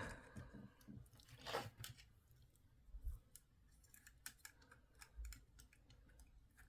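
Faint, scattered small clicks and a brief rustle of hard plastic toy parts being handled, as small missiles are fitted into the racks of a Hailfire Droid action-figure vehicle.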